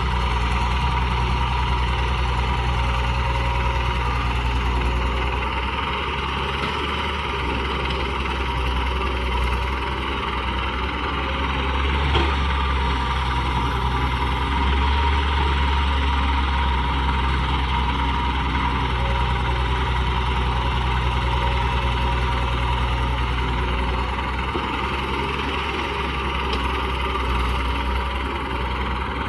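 RC excavator at work, a steady engine-like drone with a low hum underneath and one short click about twelve seconds in.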